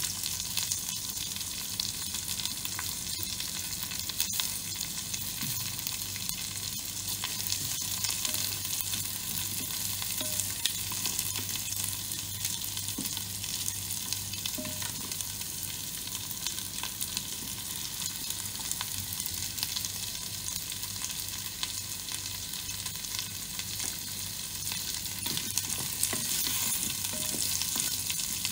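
Garlic, ginger and whole spices sizzling in hot oil in a multicooker's inner pot, stirred with a wooden spatula, over a steady low hum.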